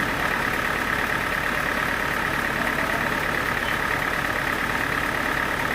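Sawmill machinery running steadily, an even engine-like drone that holds level throughout.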